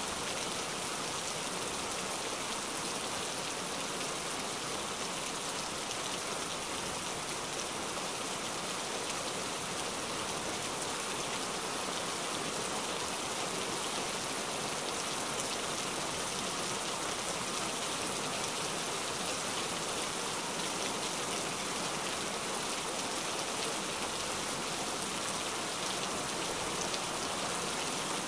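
Heavy rain falling steadily, an even, unchanging downpour of many drops.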